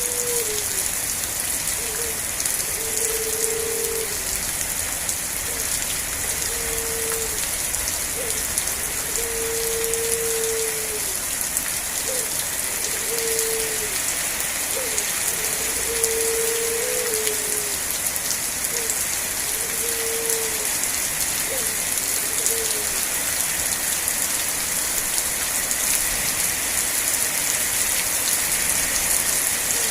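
Steady rain falling, an even hiss of drops on a surface. Over it a low, even-pitched note about a second long repeats every two seconds or so, stopping about three-quarters of the way through and coming back once near the end.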